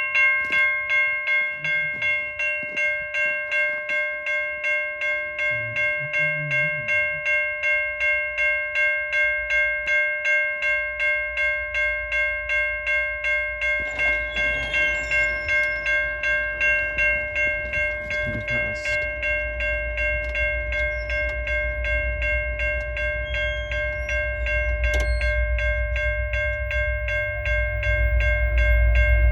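Railway grade-crossing warning bell ringing steadily, about two strikes a second, switching on abruptly. From about halfway through, the low rumble of the approaching train grows louder toward the end.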